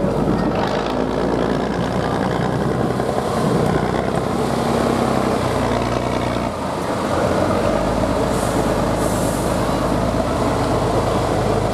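Competition truck's diesel engine running hard on a trial course, its note changing about six and a half seconds in, with a brief hiss a little later.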